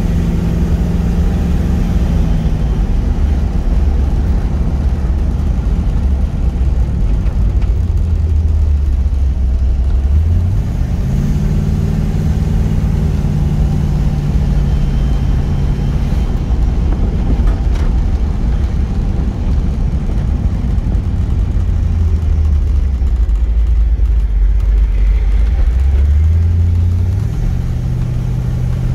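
1970 Plymouth Barracuda's 440 cubic-inch Six Barrel V8 (three two-barrel carburetors) running under way, heard from inside the cabin. The engine note climbs sharply about ten seconds in, holds, falls back around sixteen seconds, and climbs again near the end as the car accelerates and eases off.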